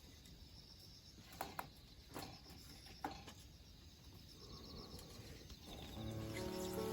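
Faint insects chirping steadily, with a few light clicks in the first half. Background music begins near the end.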